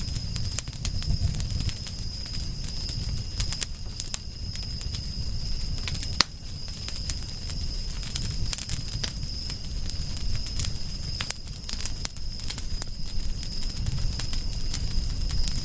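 Campfire crackling: irregular pops and snaps over the low rush of burning wood, with one sharper snap about six seconds in. A thin, steady high-pitched tone runs underneath.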